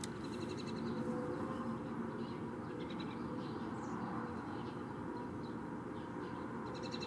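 Small birds chirping in short, rapid trills a few times, near the start, around the middle and near the end, over a steady low background rumble.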